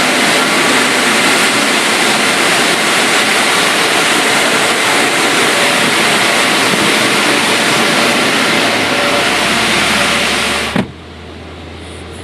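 Mark VII automatic car wash rinse spraying water over the car, a loud steady rush. Near the end it cuts off abruptly with a sharp knock, leaving a low hum.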